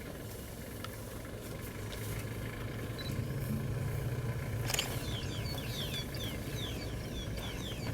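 A vehicle engine idling low and steady, growing a little louder about two seconds in, with one sharp click midway. In the last three seconds a bird calls in a fast run of short, falling chirps.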